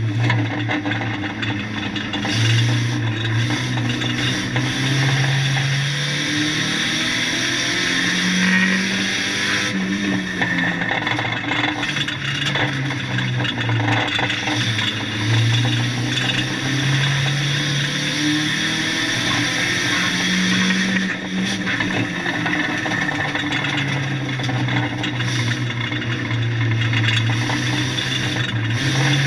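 1600cc banger race car's engine revving hard and easing off in turn, its pitch climbing and dropping every few seconds, heard from inside the stripped-out cabin. A few short knocks from the car's body punctuate it.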